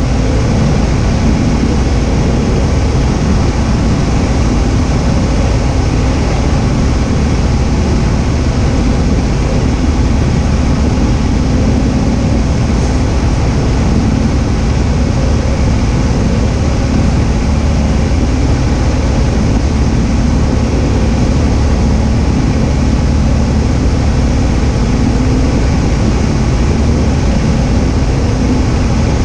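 Cessna 172H's six-cylinder piston engine and propeller heard from inside the cabin, a loud steady drone with wind noise and no change in power.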